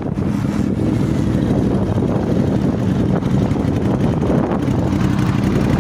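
Ducati Monster 821's L-twin engine idling steadily.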